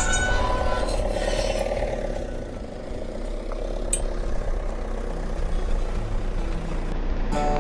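Camper van's engine running at low speed, a steady low rumble.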